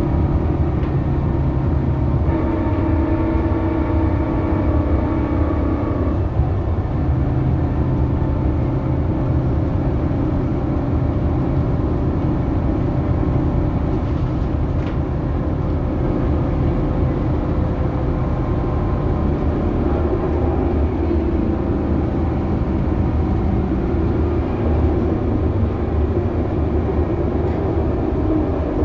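Scania K280UB bus on the move: its diesel engine and ZF Ecomat automatic gearbox run steadily over a low rumble, with several whining tones that shift about six seconds in.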